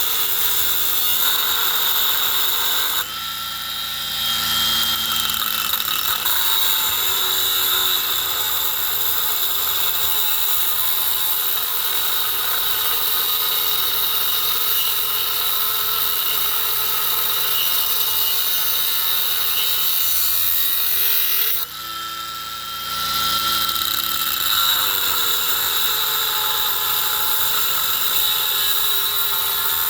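A handheld power tool running hard on steel, with a steady high whine over dense grinding noise. It eases off briefly twice, about three seconds in and again about twenty-two seconds in, its pitch sliding as it comes back to speed.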